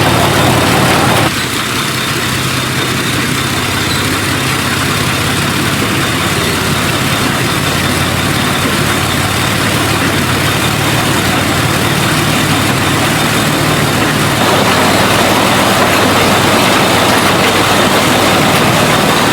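An engine idling steadily, with a low steady hum under a noisy wash. It drops a little in level about a second in and rises again near the end.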